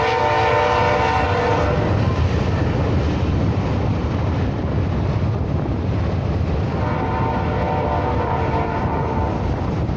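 Diesel freight locomotive's air horn sounding a chord, one blast cutting off about two seconds in and a second blast starting about seven seconds in and lasting about three seconds. Under it, the passing freight train's locomotive and cars make a steady low rumble.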